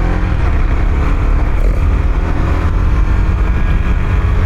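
Motorcycle on the move: the engine running under a steady, heavy low rumble.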